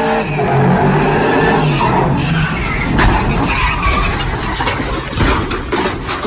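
Loud truck noise: an engine running hard under a rough, steady roar, with a run of sharp knocks near the end.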